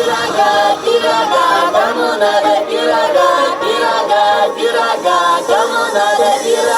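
Several voices singing together in a choir, unaccompanied.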